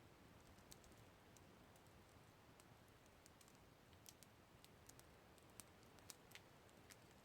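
Campfire crackling faintly: scattered sharp pops and snaps over a low hiss, with a few louder snaps in the second half.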